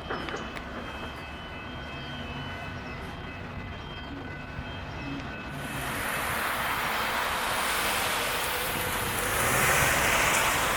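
SMART Nippon Sharyo diesel multiple unit commuter train approaching and passing: a rushing noise swells from about halfway through and is loudest near the end. Faint steady high ringing tones sound in the first half.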